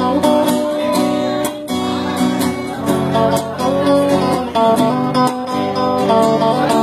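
Acoustic guitar strumming chords in an instrumental break of a sertanejo song, with no singing.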